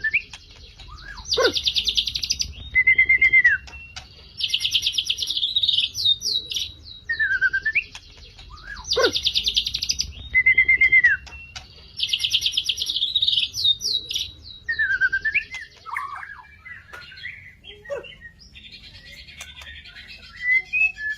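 A murai (Copsychus songbird) singing persistently: loud, fast chattering trills alternate with short whistles that slide down and back up in pitch. The same phrase comes back about every three seconds, and the song turns softer and more varied near the end.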